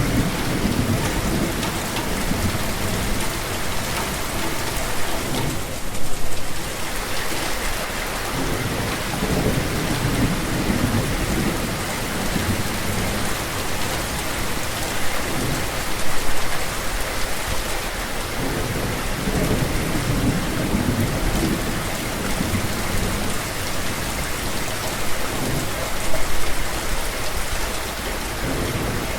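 Steady heavy rain pouring on surfaces, with low rolling rumbles of thunder underneath. Brief louder swells come about every ten seconds.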